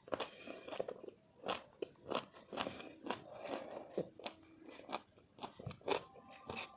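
Close-up crunching and chewing of raw sour mango: a run of irregular crisp bites and wet chews.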